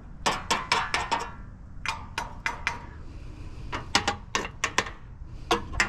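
Scrap metal pieces being handled and sorted, mostly aluminum with some steel: sharp metallic clanks and knocks with a light ring, in four quick clusters of several hits each.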